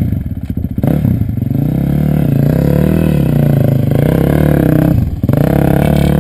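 Dirt bike engine running and being revved, its pitch rising and falling repeatedly, with a brief drop in level about five seconds in.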